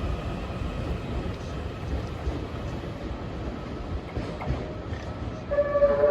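E001 series Shiki-shima cruise train pulling out, a steady low rumble with occasional clicks of wheels over rail joints. Near the end a train horn sounds, two held tones, the lower joining a moment after the first.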